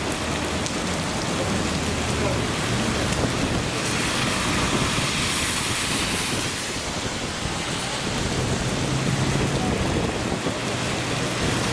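Heavy rain pouring onto a paved street, a steady dense hiss of drops hitting wet pavement and puddles, with a low rumble coming and going underneath.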